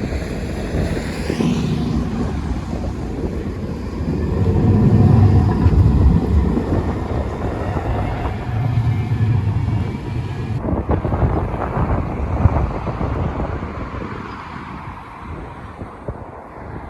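Bombardier NGT6DE tram running along the track, with a low rumble of wheels and running gear that swells and then fades, and an electric motor whine gliding in pitch near the start.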